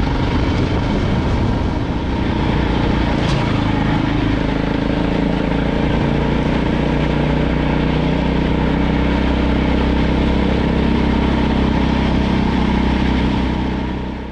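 KTM LC4 640 single-cylinder motorcycle engine running steadily under way, fading out near the end.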